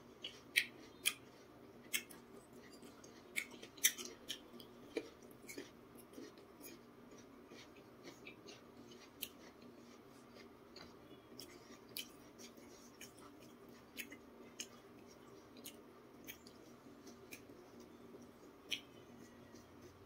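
Raw jicama being chewed close to a clip-on microphone: irregular crisp crunches, thick in the first few seconds and sparser later.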